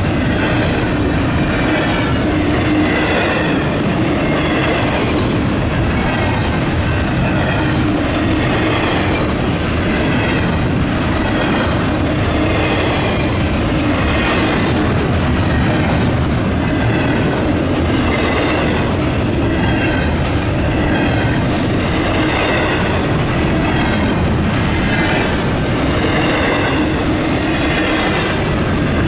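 A train's cars rolling past, steel wheels clacking over the rail joints in a regular rhythm about once a second, with a steady rumble underneath.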